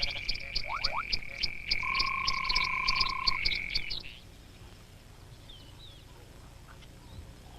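Frog chorus: a continuous high trill with fast clicking over it and shorter, lower held notes. It stops abruptly about four seconds in, leaving a faint background with a few soft chirps.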